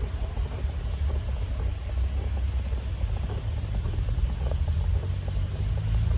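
Low, fluctuating rumble of wind buffeting a phone microphone in a snowstorm, with a vehicle engine hum rising slightly near the end.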